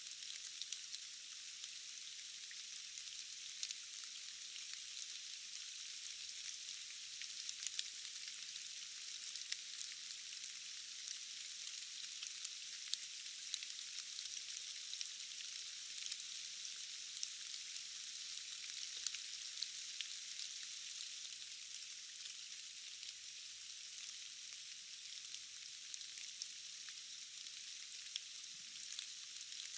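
Steady rain falling in a forest: an even hiss with scattered sharp taps of single drops.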